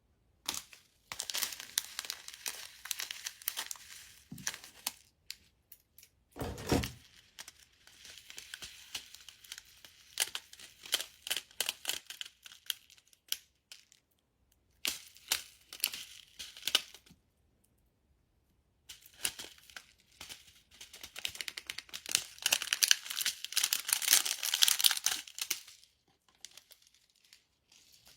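Crinkly, crackling slime being handled, in several spells of dense crackles and snaps separated by short pauses. One low thud comes about six and a half seconds in.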